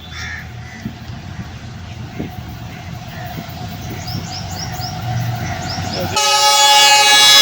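GE40 diesel-electric locomotive approaching at speed, its rumble building steadily. About six seconds in its horn blows loud, a chord of several tones held on.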